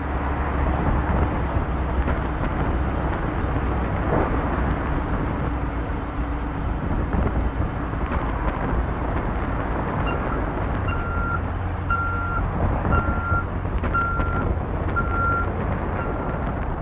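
A large vehicle's engine running steadily with a low hum. About ten seconds in, a reversing alarm starts beeping about twice a second.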